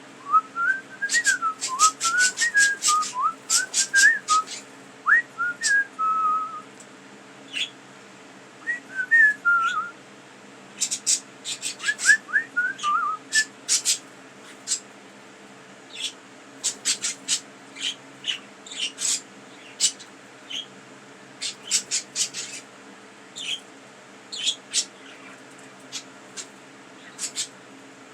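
Pet budgies chattering in clusters of short, sharp chirps and clicks, with stretches of clear, gliding whistled notes.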